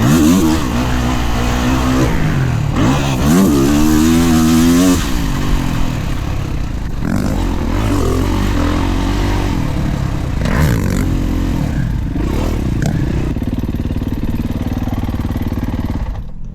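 Dirt bike engine revving up and down as it is ridden hard around a motocross track, the pitch climbing and dropping repeatedly on and off the throttle. About five seconds in it settles to a lower, steadier note.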